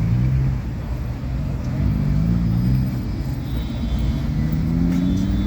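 Car engine pulling away and accelerating, its pitch climbing steadily over a low rumble.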